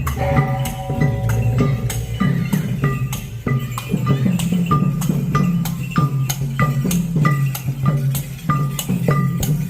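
Khmer festival percussion music: drums keeping a steady beat under small cymbals clinking with short ringing strikes.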